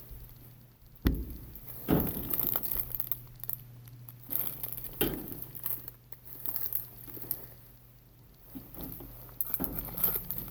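Fruit-snack packaging being handled: crinkling and rustling, with a few sharp knocks, the loudest about one, two and five seconds in.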